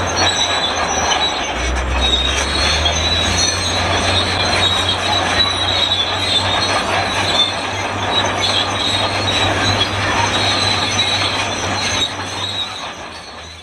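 Shantui SD32 crawler bulldozer's tracks squealing loudly in a high metallic screech over the low drone of its diesel engine as it moves; the sound fades out near the end.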